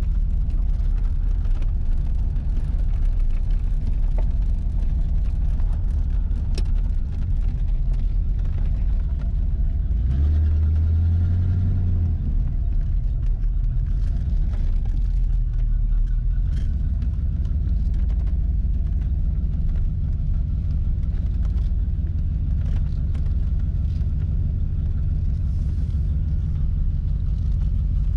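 1982 Corvette's 350 V8 running steadily under way, heard from inside the cabin as a loud, low rumble through a muffler that has rotted through. About ten seconds in, the engine note swells deeper for about two seconds.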